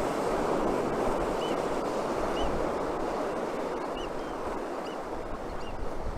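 Steady hiss of Atlantic surf breaking on the shore, mixed with wind. A small bird's short, high chirps repeat about once a second over it.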